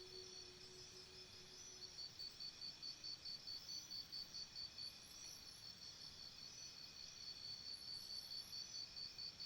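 Crickets chirping faintly in a steady pulsing rhythm, about three to four chirps a second, over a continuous high insect trill. A low lingering musical tone fades out in the first two seconds.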